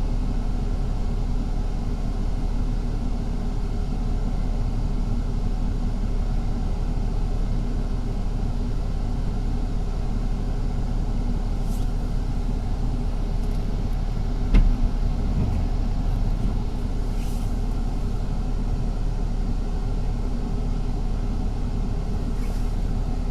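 Inside a moving city bus: steady engine and road rumble, with one sharp knock about fifteen seconds in.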